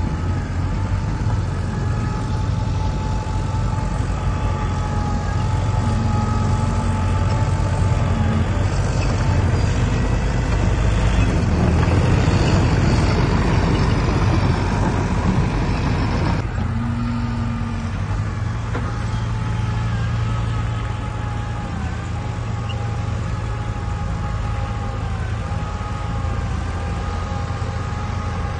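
Heavy diesel earthmoving machinery running, a low engine drone under a steady whine. For about five seconds in the middle it grows louder and rougher, then drops off abruptly.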